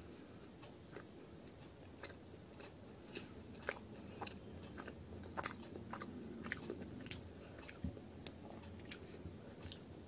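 Close-up chewing of a crisp fried muli (radish-stuffed) kachori, with irregular sharp crunches.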